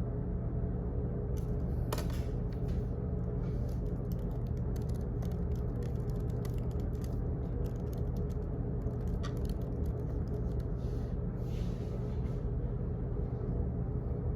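Office background noise: a steady low hum, with runs of quick, irregular light clicks from shortly after the start until near the end.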